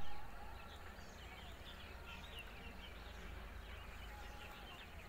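Many small birds chirping and calling, with short, quick chirps overlapping throughout. Under them runs a steady low rumble, and there is a brief bump right at the start.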